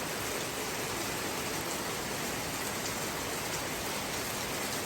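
Heavy rain pouring down steadily, an even hiss with faint drip ticks here and there.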